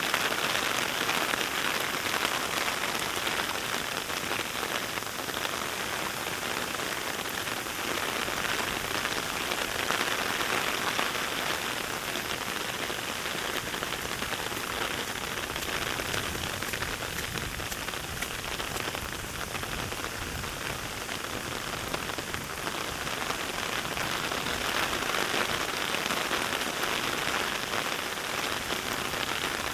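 Steady, fairly heavy rain: a dense, even patter of raindrops.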